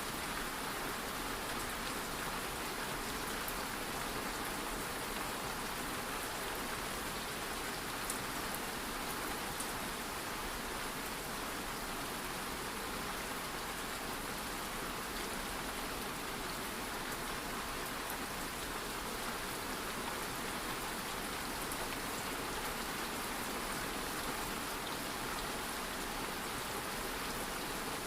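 Light rain falling steadily, an even hiss with faint scattered drop ticks.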